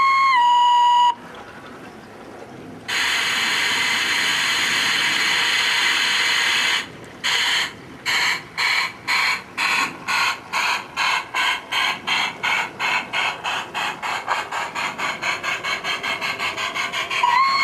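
LGB garden-railway steam locomotive: a whistle sounds and drops slightly in pitch, then a long steady hiss of steam. Then exhaust chuffs start slowly and speed up steadily as the locomotive pulls away, and the whistle sounds again near the end.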